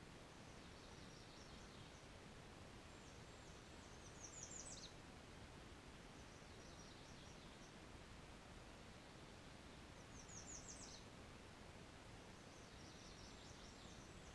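A songbird singing faintly: about five short phrases of quick, high notes, spaced a few seconds apart, over a steady hiss.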